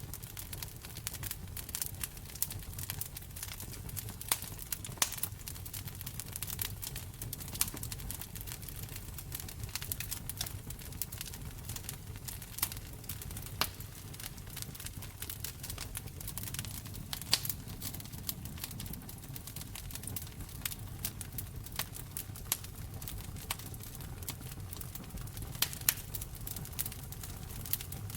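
Wood fire in a fireplace crackling, with frequent irregular sharp pops and snaps over a low, steady rumble of the flames.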